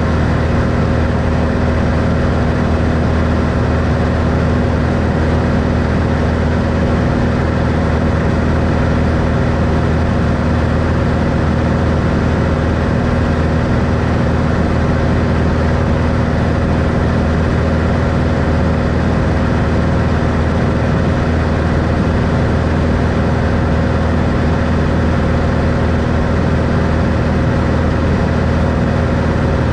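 Steady drone of a 1964 Cessna Skylane's six-cylinder Continental O-470 engine and propeller running at constant power, loud and unchanging, with a low hum carrying several steady tones.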